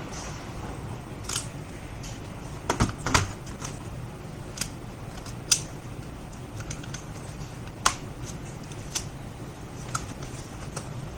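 Irregular light clicks and taps, about a dozen spread unevenly, over a steady low hum: small hard objects handled on a workbench.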